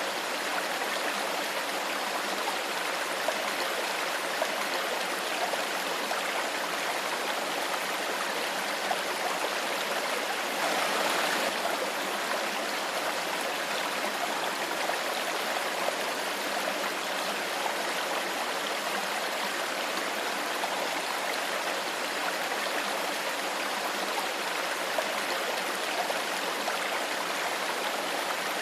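Shallow stream flowing steadily, with a continuous rush and small trickling splashes; it swells a little for about a second around a third of the way in.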